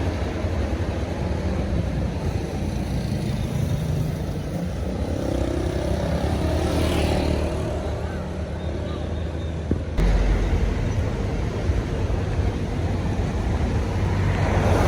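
Heavy vehicle engines running, with road traffic noise; the low engine rumble gets suddenly louder about ten seconds in.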